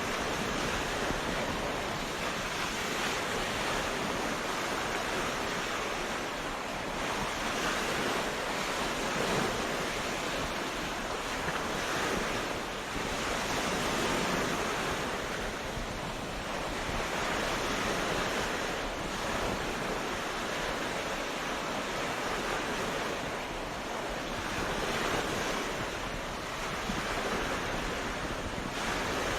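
Ocean waves washing onto a beach, a steady surf hiss that swells and eases every few seconds as each wave breaks and runs up.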